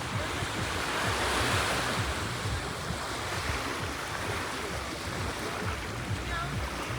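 Sea waves washing, with wind gusting against the microphone as a low rumble.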